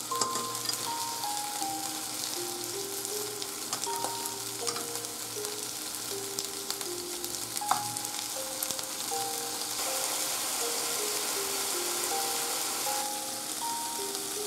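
Chicken-and-tofu tsukune patties sizzling steadily in oil in a nonstick frying pan on low-to-medium heat, with a couple of sharp clicks of the spatula against the pan. A simple background melody plays along.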